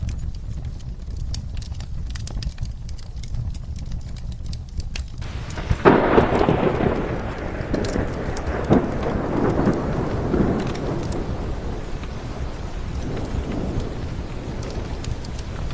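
Steady rain with a thunderclap about six seconds in that rolls on and slowly dies away over several seconds. Short crackles, likely from a wood fire, are scattered throughout.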